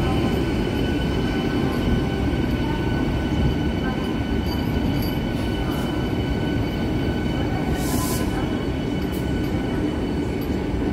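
Vande Bharat Express electric train set moving along the rails: a steady rumble with a thin, steady high-pitched whine over it, and a brief sharp clack about eight seconds in.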